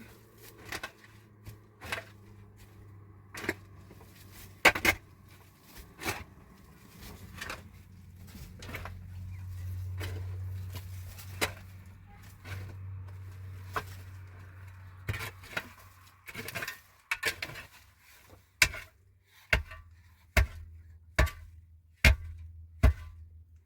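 Irregular knocks and clatter of hard objects being handled, then a run of heavy, evenly spaced thuds, about one a second, near the end, over a low steady hum.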